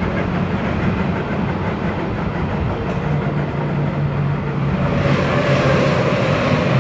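Berlin S-Bahn class 485 electric train running, a steady motor hum over wheel and rail noise. About five seconds in, an oncoming S-Bahn train passes close by, adding a rush of noise and a higher whine.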